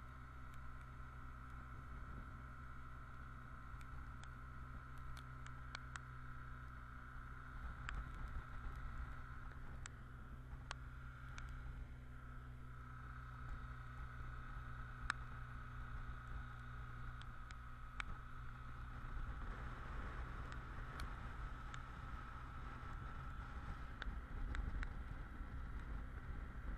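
BMW R1200GS boxer-twin motorcycle engine running steadily while riding, a low even drone with a steady higher tone above it. Scattered sharp clicks sound over it.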